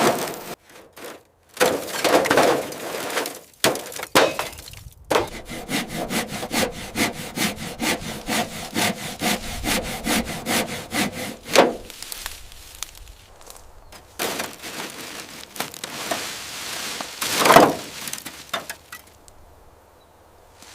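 Sawing by hand: a long run of quick, even back-and-forth strokes, with louder scraping sweeps around it.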